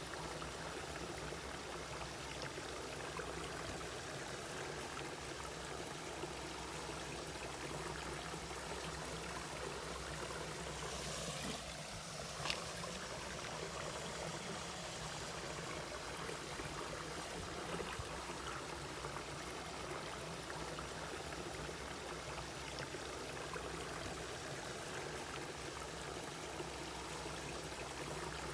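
Mountain valley stream flowing and trickling steadily over rocks, with one brief sharper splash or click about halfway through.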